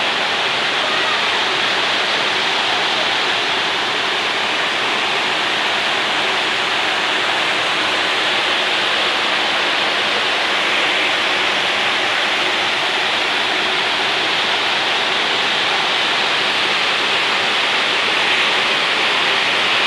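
Heavy tropical rain in a steady, unbroken downpour.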